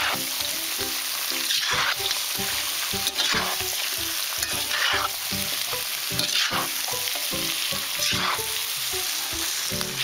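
Carrots and meat sizzling in hot oil in a cast-iron kazan, stirred with a metal slotted spatula in strokes about every second and a half, with knocks of the spatula against the pot. The carrots are nearly done frying for the pilaf base.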